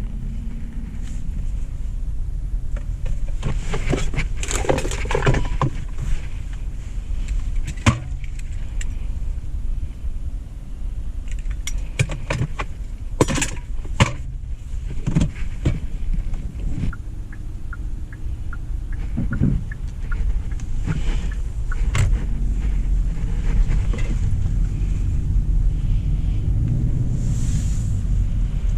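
A steady low rumble of a 2025 Hyundai Elantra SEL heard from inside the cabin, with scattered clicks and knocks, most frequent about four to six seconds in and again around twelve to fifteen seconds.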